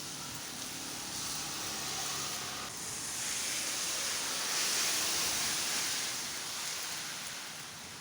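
Heavy rain pouring down, a steady hiss that swells into a louder rush about five seconds in, then eases back.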